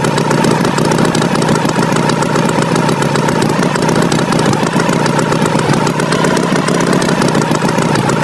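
Tractor engine sound running steadily at an even level, a rough idling chug.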